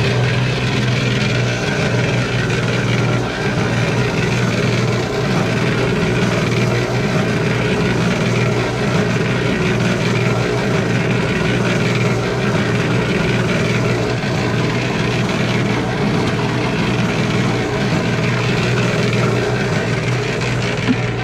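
Concrete mixer running steadily, with a constant motor hum while it turns a batch of sand and wax.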